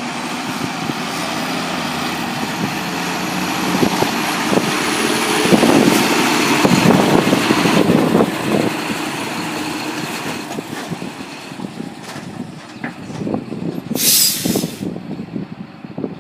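Heavy diesel farm machinery running, louder for a few seconds in the middle and then easing off. Near the end comes a short, sharp hiss of released air, like an air brake letting off.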